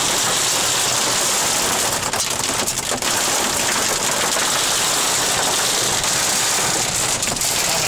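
Heavy rain falling on a car's roof and windscreen during a thunderstorm, heard from inside the cabin: a loud, steady, dense hiss.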